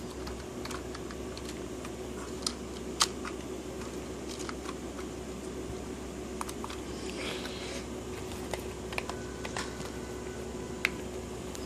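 Scattered light clicks and taps of plastic Lego train parts being handled and set onto plastic track, over a faint steady hum.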